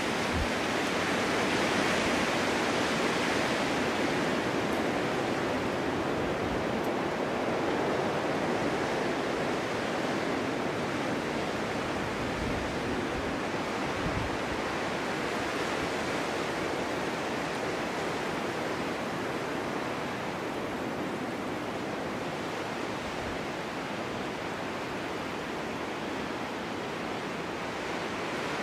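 Snowstorm wind blowing in a steady, even rushing hiss. It swells slightly about two seconds in and again around eight seconds, then eases slowly.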